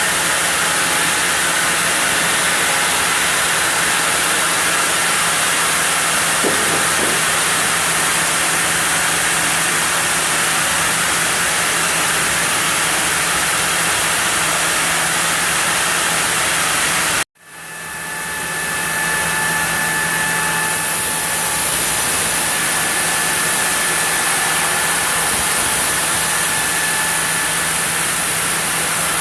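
Sawmill saw running steadily as it cuts zelkova, a loud, even machine noise. About two-thirds of the way through the sound cuts out abruptly, then builds back up over a few seconds, and a faint high whine joins it.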